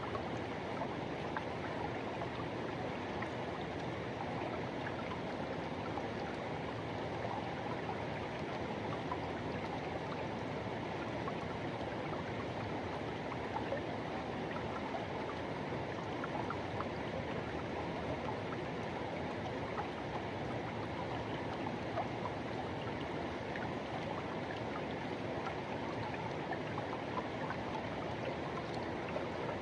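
Forest river rushing: a steady, even flow of water with small splashes and no change in level.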